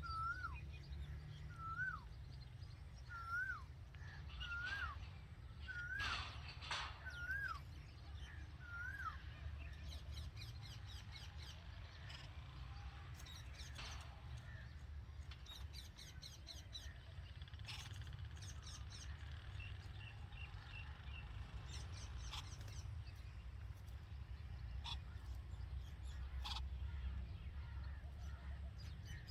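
Red-vented bulbul calling: a clear whistled note, rising then falling, repeated about seven times in the first nine seconds, followed by scattered short, sharp chirps, over a steady low rumble.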